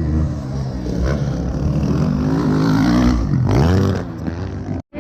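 450cc motocross motorcycle engines revving hard, the pitch rising and falling as the riders work the throttle. The sound is loudest around the middle and cuts out for an instant near the end.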